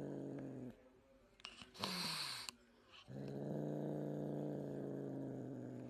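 A pet animal making a long, low, steady growl-like call twice, each held for a few seconds, with a short noisy falling sound in the gap between them; the animal is displeased.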